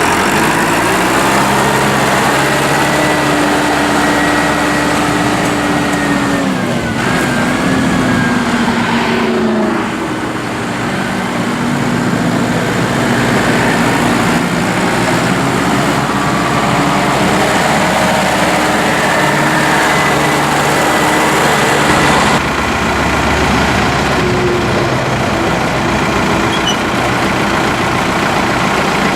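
FarmTrac 785DTC tractor's four-cylinder Deutz diesel engine running, its speed rising and falling several times, mostly in the first ten seconds.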